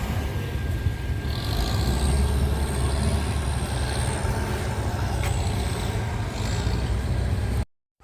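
Heavy engine running with a steady low rumble and a faint high whine above it. The sound cuts off abruptly near the end.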